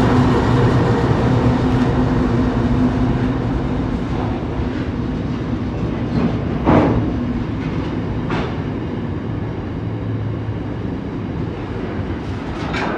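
Intermodal freight train passing slowly: a diesel locomotive's steady engine hum fades over the first seven seconds as the locomotive moves on, leaving the continuous rumble of container wagons rolling by. Two sharp knocks from the wagons come about seven and eight and a half seconds in, the first the loudest sound.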